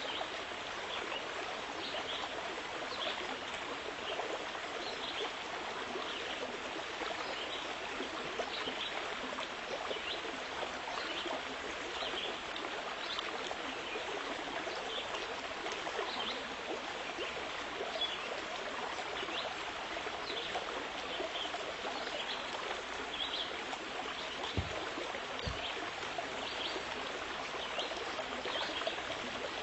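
Steady running water, like a small stream trickling, with many short high splashes throughout. Two short low knocks come about 25 seconds in.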